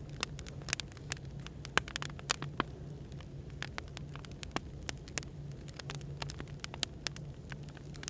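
Burning firewood crackling, with many irregular sharp pops, over a steady low hum of background noise.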